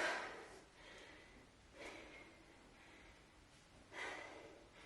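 A woman breathing hard to catch her breath after a strenuous kettlebell interval: three heavy breaths about two seconds apart, the first the loudest.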